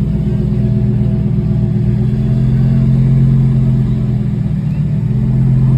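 Audi R8's V10 engine running at low revs as the car rolls slowly, a steady low note that rises a little about two seconds in and again near the end.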